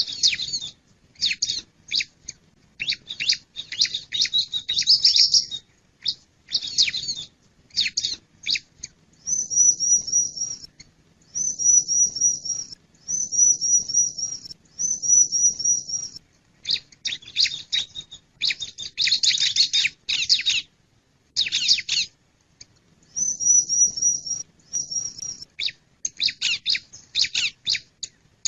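Male ciblek (bar-winged prinia) calling: rapid runs of sharp high chirps, broken by about five even trilled phrases of a second or so each, four in a row in the middle and one more near the end.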